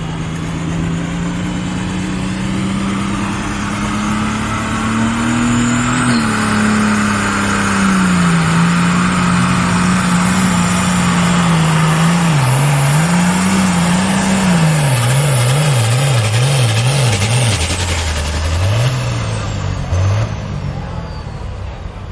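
Diesel pulling tractor at full throttle, hauling the sled down the track. The engine note climbs over the first several seconds and holds. In the second half it wavers rapidly up and down as the tractor bounces under load. It falls away near the end as the pull finishes.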